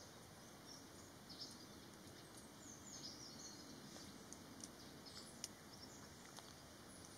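Faint outdoor ambience with scattered short, high bird chirps and a few faint clicks.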